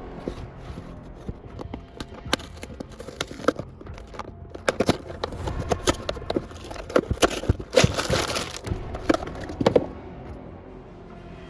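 Irregular clicks and taps of hard plastic LEGO pieces and packaging being handled, with a few quick clusters of clicks around the middle.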